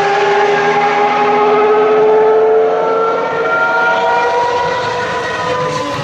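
Ferrari racing car engine held at high revs, its pitch climbing slowly as the car accelerates.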